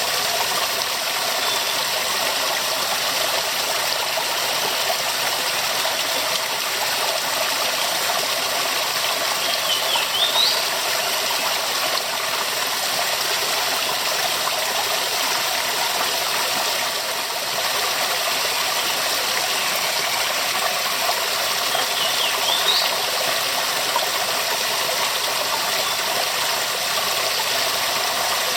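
Waterfall: falling water rushing steadily, its hiss sitting mostly in the mid and high range. Two brief high rising chirps stand out about ten seconds apart.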